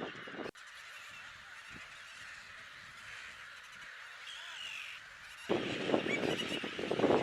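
Large gull breeding colony calling: many birds squawking over one another in a continuous din. The din drops abruptly to a fainter, more distant chorus about half a second in and comes back loud and close near the end.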